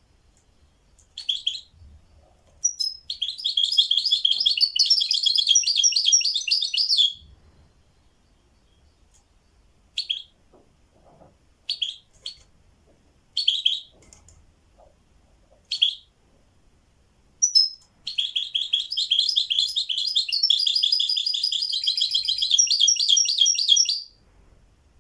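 A songbird singing: two long phrases of rapid high trills, with short single calls in the gaps between them.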